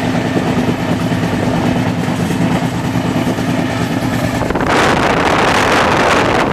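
Passenger express train running at speed, heard from inside a coach as a steady rumble with a low hum. About four and a half seconds in it changes abruptly to a louder rush of wind across the microphone at an open coach door.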